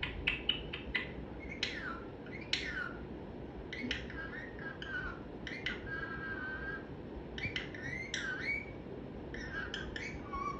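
Pet parrot vocalising in bursts. It starts with a run of quick clicks, then gives squawky calls with steep falling whistles and warbling, chattering sounds.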